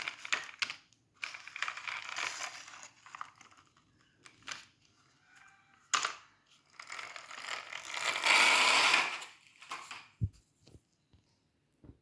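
Rustling and clicking of objects being handled close to the microphone. There is a sharp click about six seconds in, and the loudest rustle comes around eight to nine seconds in.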